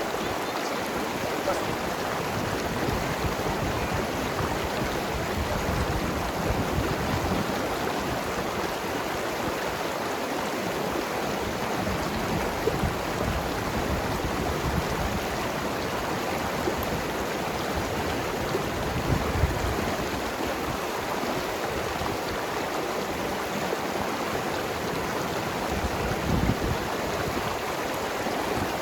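Mountain river flowing and tumbling over rocks: a steady rush of water with irregular gurgles and small swells.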